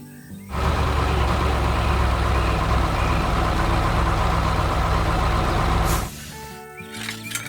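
Heavy construction-truck engine sound effect running steadily with a deep rumble. It starts about half a second in and cuts off suddenly about six seconds in, and music comes back near the end.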